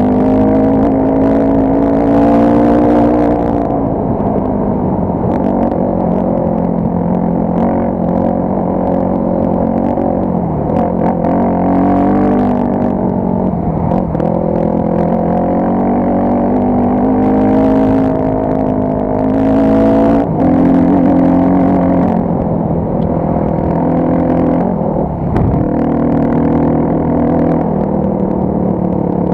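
Off-road motorcycle engine running while being ridden on a dirt track, its revs rising and falling again and again as the throttle opens and closes. Two short spells of hiss rise over the engine, one about two seconds in and one a little past halfway.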